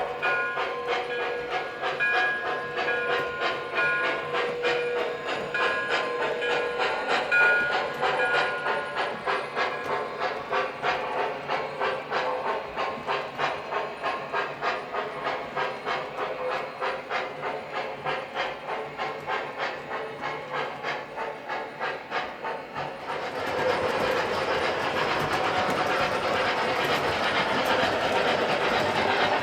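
Model steam locomotive's onboard sound system running: a steady rhythm of steam chuffs, with a whistle sounding over it in the first several seconds. About 23 seconds in it gives way to a louder, steadier rush of running noise.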